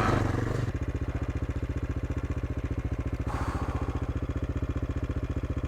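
AJP PR7 motorcycle's single-cylinder engine settling, under a second in, from riding into a steady idle with an even, rapid pulse. A short hiss comes about three seconds in.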